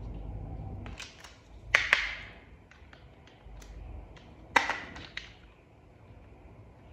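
Hard plastic toy parts clicking and knocking as pieces are handled and fitted together: a few sharp clicks, the loudest pair about two seconds in and another loud one halfway through, with faint ticks between.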